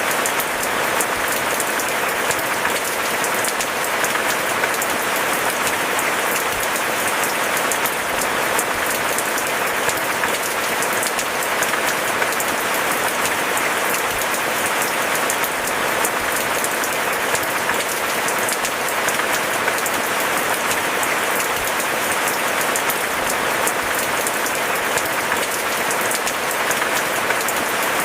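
Steady rain falling: a dense, even patter of many drops.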